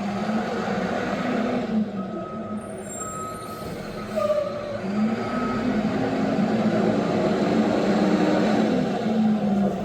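Front-loader garbage truck's diesel engine running and revving up and down, with its reversing beeper sounding a few short beeps in the first half.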